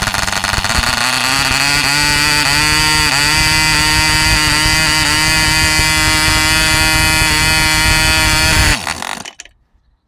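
Katipo 1.49cc Mk1 model diesel engine running at high revs, turning a 7x6 wooden propeller, with a high buzzing note. Its revs climb over the first couple of seconds and then hold steady. Near the end it cuts out suddenly and the sound dies away within about half a second.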